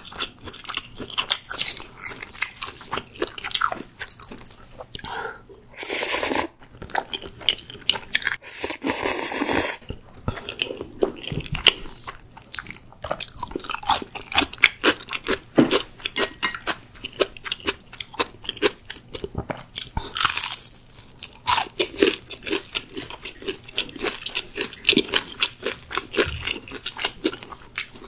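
Close-miked eating: crunchy bites and moist chewing as a dense run of small clicks, with longer noisy bursts about six and nine seconds in and again near twenty seconds.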